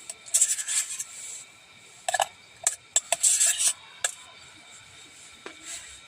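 Cookware being handled: irregular bursts of scraping and rubbing with a few light clinks, busiest from about two to four seconds in.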